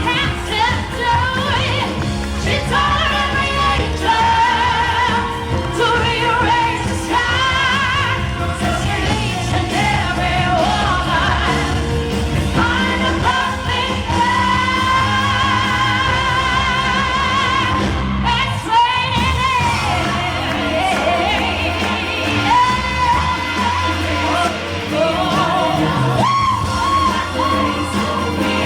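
Live dance-pop performance with a singing voice over a full band backing, including long held notes with vibrato. The bass and beat drop out briefly about two-thirds of the way through, then return.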